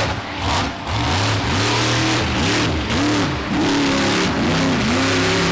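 Bounty Hunter monster truck's engine revving hard, its pitch swinging up and down about once a second as the driver works the throttle.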